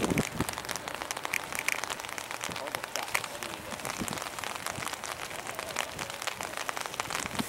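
Rain pattering on an umbrella: a dense, steady scatter of small drop ticks, with a short low handling bump right at the start.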